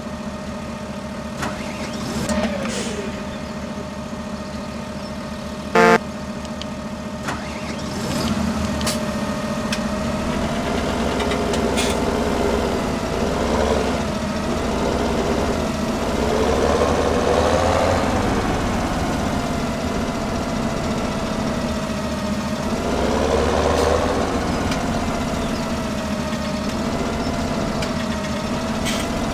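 Tractor engine running steadily, its pitch rising and falling a few times as it revs. About six seconds in there is a short, loud, pulsing beep like a horn.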